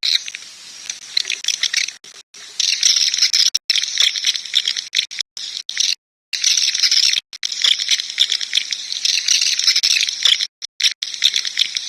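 Recorded swiftlet call (suara panggil walet, the lure sound played in swiftlet houses): dense, high twittering chirps of many swiftlets. It is broken by several abrupt dead-silent gaps, about five times, where the audio has been cut in editing.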